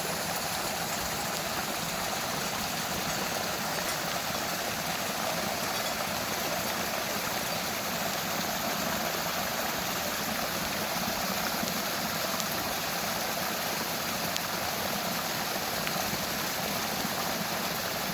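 Steady rushing of heavy rain and running storm water, an even wash of noise with no breaks.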